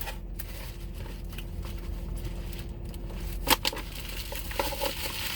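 Quiet eating sounds, chewing and handling of fried food and its wrapping, over a steady low hum, with one sharp click about three and a half seconds in.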